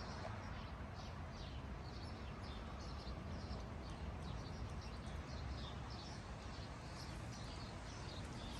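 A small bird chirping over and over, short falling notes about twice a second, over a low steady background rumble.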